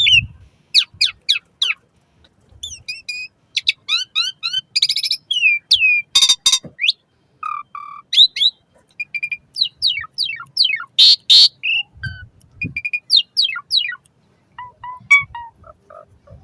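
Asian pied starling singing a long, varied song of quick rising and falling whistles and chirps, broken by harsh rasping notes about six and eleven seconds in.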